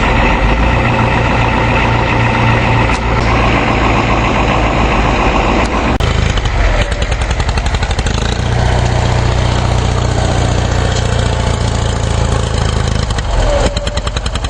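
The 6.9-litre International diesel V8 of a 1987 Ford Econoline motorhome running steadily, freshly cold-started after two months in freezing weather. Its note changes about six seconds in.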